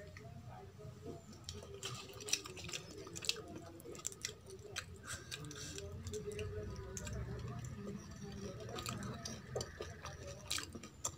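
Close-up eating sounds: chewing and wet squishing of rice being mixed with kadhi by hand, with many small scattered clicks.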